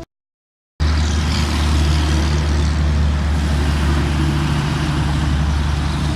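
A car driving, heard from inside the cabin: a steady low engine and road drone that starts just under a second in, after a brief moment of dead silence.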